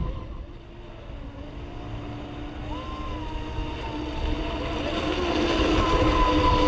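Brushless electric motors of RC racing speedboats whining across the water. One tone steps up in pitch about three seconds in, and the sound grows steadily louder toward the end.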